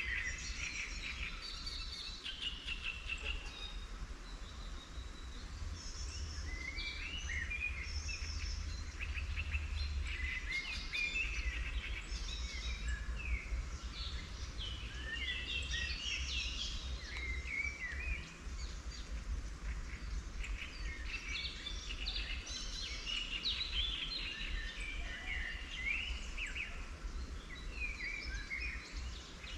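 Several wild songbirds singing and chirping at once in spring, short overlapping phrases and trills that run on without a break, over a steady low rumble.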